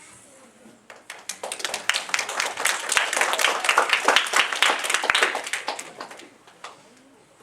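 Audience applauding. The clapping builds about a second in and dies away after about six seconds.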